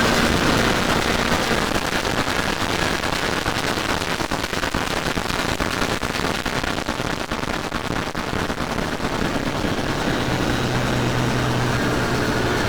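Dense, loud mashup of many layered electronic sound tracks blending into a rushing roar that starts suddenly. A few steady low tones come in about ten seconds in.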